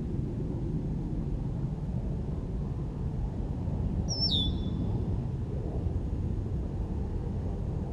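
A single short bird call a little past the middle, a whistle sliding down in pitch, over a steady low background rumble.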